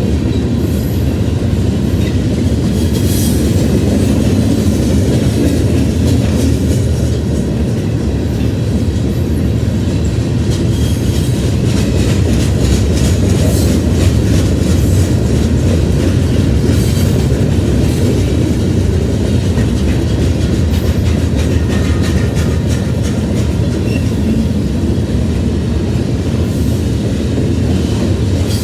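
Mixed/intermodal freight train rolling past: a steady heavy rumble with the clickety-clack of wheels passing over rail joints.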